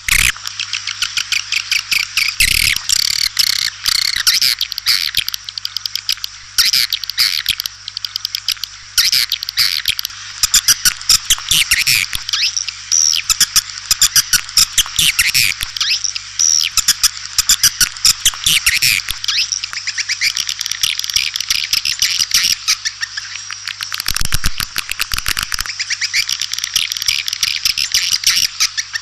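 White-nest swiftlets chirping and twittering in a dense, continuous chorus of fast high trills and clicks, a swiftlet call recording of the kind played to lure swiftlets into a nesting house. A faint steady low hum runs under it.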